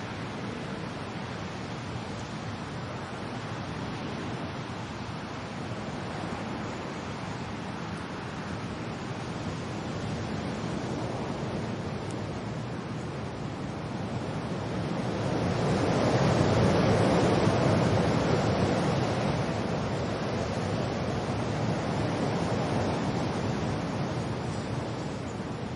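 Wind and rain as a steady rushing noise, with a gust swelling to a peak about two-thirds of the way in and then easing off.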